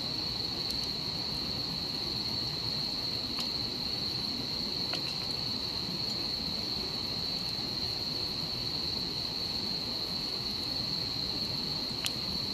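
Insects singing in one steady, unbroken high-pitched trill over a low steady rush of noise, with a few faint clicks, the sharpest near the end.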